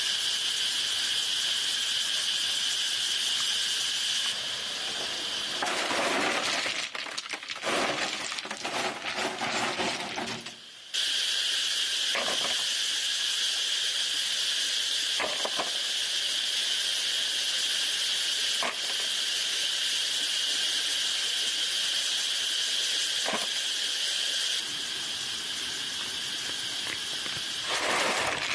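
Steady, high insect chorus in the background. A burst of rustling and handling noise runs from about 6 to 11 seconds, and a few single light clinks follow later on.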